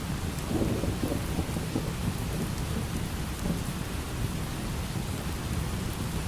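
Steady light rain with a continuous low rumble of thunder.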